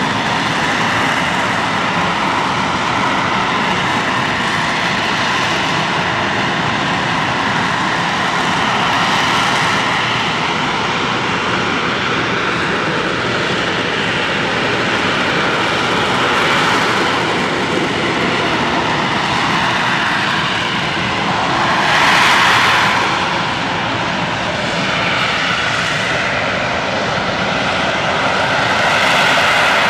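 AV-8B Harrier II Plus jet engine, a Rolls-Royce Pegasus vectored-thrust turbofan, running loud and steady with a whine over the noise. It swells louder about two thirds of the way through and again near the end.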